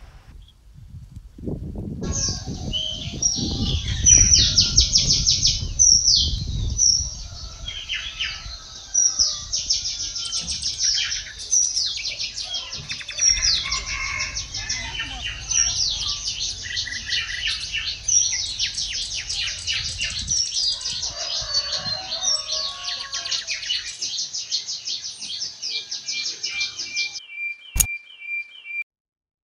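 Small birds chirping and singing in quick, repeated trilling phrases, with a low rumble under the first several seconds. Near the end the chirping stops and a thin steady high tone is left.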